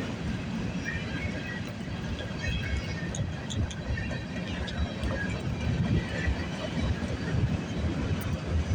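CN freight train cars rolling past: a steady rumble of wheels on the rails, with scattered brief high-pitched squeals.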